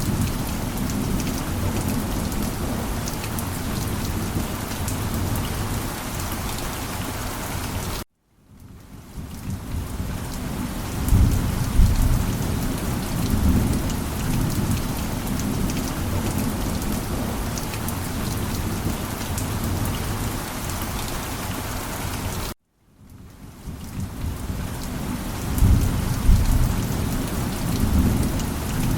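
Steady heavy rain with low rolling thunder rumbles, twice swelling up. The sound cuts out suddenly twice, about eight seconds in and again about twenty-two seconds in, and fades back in each time.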